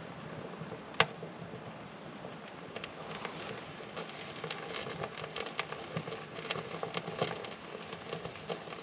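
Freshly lit wood stove fire catching in tumbleweed, fat wood and kindling, crackling and popping. There is one sharp pop about a second in, and the crackle grows busier from about halfway.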